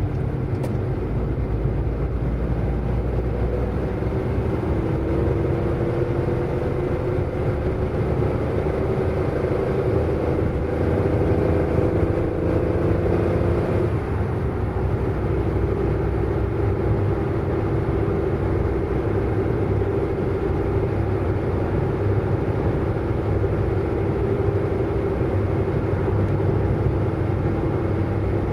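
Car driving, its engine note climbing steadily for about ten seconds, then dropping suddenly at a gear change about halfway through and holding steady after it, over a constant low road rumble.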